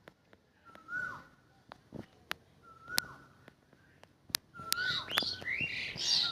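Myna birds calling: a short whistle that rises then drops, repeated about every two seconds, with sharp clicks between. About halfway through, a louder, harsher chatter with rising notes joins in.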